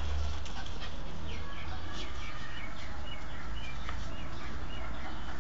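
Birds chirping, a quick run of short chirps a second or two in, over a steady low rumble.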